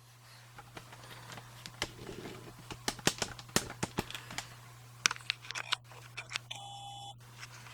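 Scattered sharp clicks and light taps of objects being handled, over a steady low electrical hum, with a short steady electronic beep near the end.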